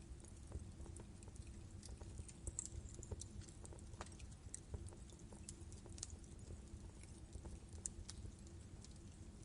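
Wood fire in a fireplace burning and crackling: irregular sharp pops and snaps over a low rumble of flame.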